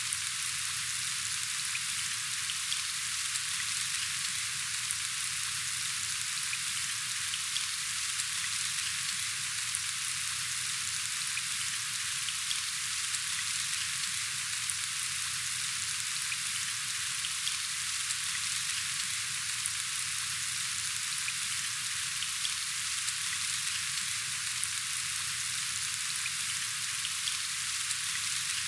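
Steady rain falling: an even hiss with scattered small sharp ticks of individual drops.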